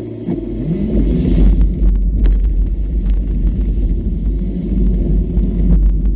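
Off-road vehicle engine running, rising in pitch about half a second in, with a loud low rumble and scattered knocks and rattles.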